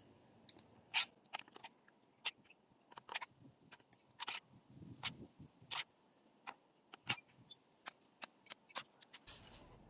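Irregular sharp clicks and snaps, a dozen or more spread unevenly, the loudest about a second in, with a soft low thud around five seconds in.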